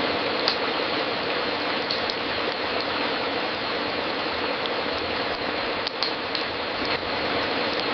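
Wood fire crackling in a fireplace: a steady hiss with scattered sharp pops and snaps, a few louder ones about half a second in, around six seconds and near seven seconds.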